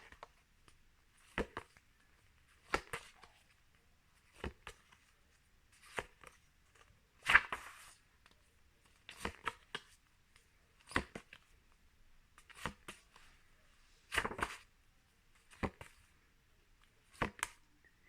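About a dozen short papery flicks and taps, one roughly every second and a half: flashcards being turned over one at a time.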